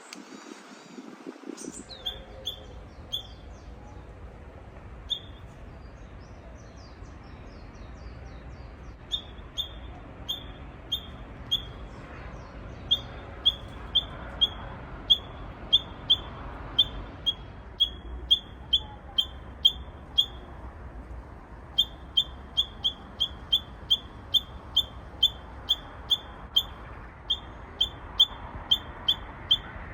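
Japanese bush warbler (uguisu) giving an unusual call: one short, high note repeated over and over, sparse at first and then steady at about two a second, with a brief break about two-thirds of the way through. The uploader takes the odd call for a young bird still practising its song.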